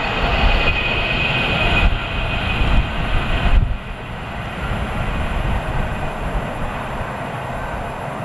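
Low rumble of an electric train running on the main line. It cuts off sharply a little under four seconds in, leaving a quieter, steady outdoor background.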